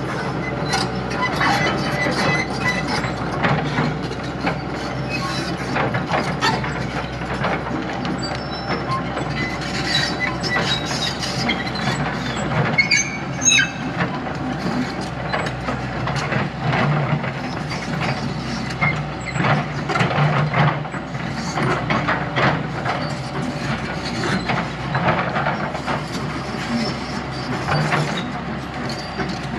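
Heavy earthmoving machine working: a diesel engine running steadily under frequent metallic clanks, clicks and rattles.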